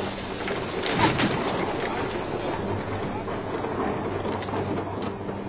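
Train at a station: a steady rumble with a sharp clatter about a second in and a thin high squeal that slides down and fades midway.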